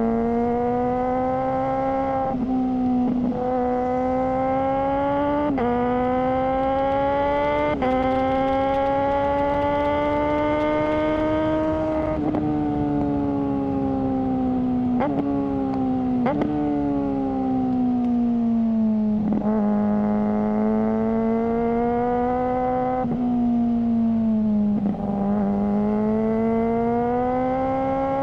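Suzuki GSR600's inline-four engine through a GPR Ghost aftermarket exhaust, ridden at high revs: its note climbs steadily, then breaks and steps with quick gear changes every few seconds, with a longer easing off and pick-up midway.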